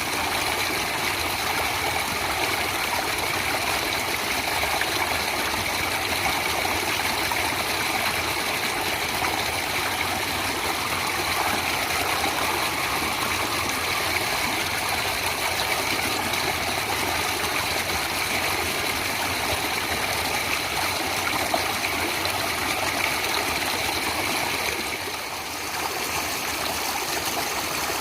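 Stream water flowing and splashing steadily, a continuous rush with a brief slight drop in level near the end.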